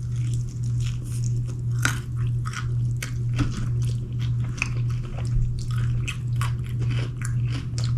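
Close-up chewing and biting of crusted fried chicken wings: irregular wet smacks and crisp clicks of the mouth and crust. A steady low hum runs underneath.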